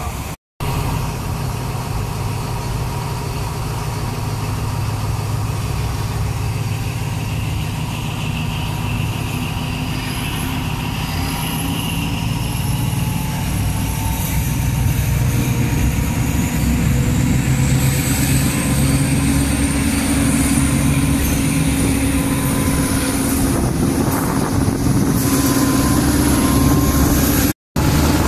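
Train running along the track, heard from a carriage window: a steady low rumble with wind noise, and a faint whine slowly rising in pitch through the middle. The sound drops out for a moment twice, once near the start and once near the end.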